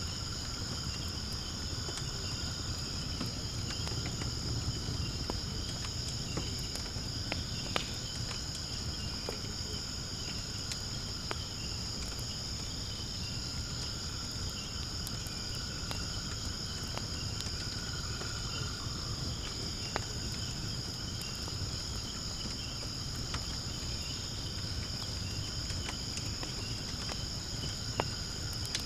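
Firewood burning in a fire pit, with scattered sharp crackles and pops from the burning wood, over a steady high-pitched chorus of insects.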